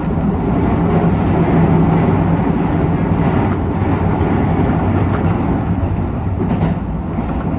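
Keisei 3000 series commuter train running between stations, heard from inside the car: a steady rumble of wheels on rail with a low hum and a few faint clicks.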